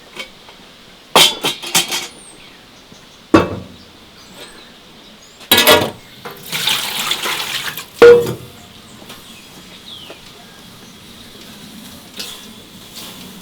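Dishes and pots clinking and knocking several times, with water running for a second or so in the middle and a loud knock just after it.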